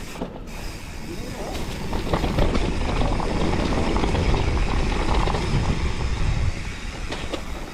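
Mountain bike being ridden down a wet, slippery trail: tyres on the ground and the bike rattling, with scattered clicks. It gets louder from about two seconds in until past six seconds.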